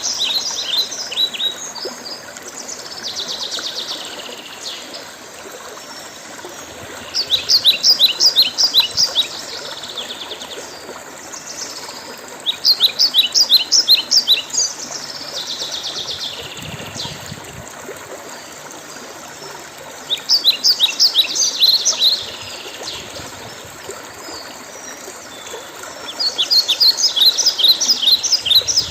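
A songbird singing the same phrase of quick, sharp notes over and over, each phrase about two seconds long and coming back roughly every six seconds, with softer, blurred phrases between them, over a steady background hiss.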